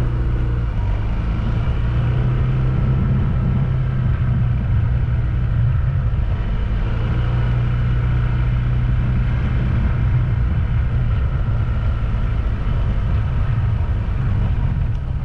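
Steady engine drone and road noise of a moving vehicle, with a strong low hum.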